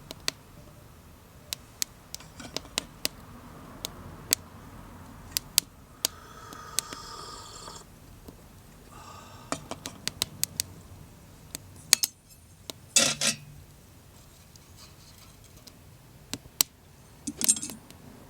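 Small wood fire in a homemade wood stove crackling, with sharp irregular pops of burning wood. Twice, about thirteen seconds in and near the end, there is a louder brief clatter of metal or tableware being handled.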